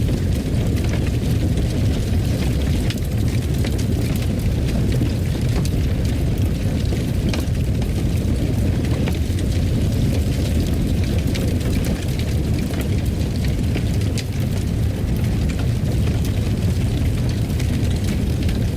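Wood fire burning in a fireplace: a steady low rumble of flames with frequent small sharp crackles and pops.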